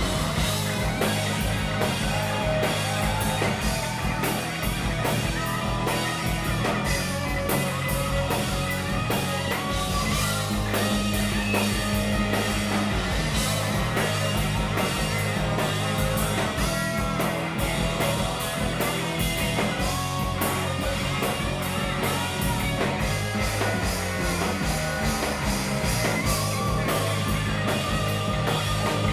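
Rock band playing a hard-rock song with electric guitar, bass and drum kit, without vocals.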